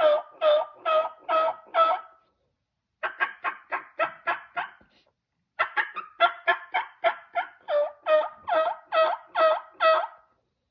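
Turkey calling in three runs of yelps: five evenly spaced notes, a short gap, a faster run of about eight, then a longer run of about a dozen. Each note breaks downward in pitch.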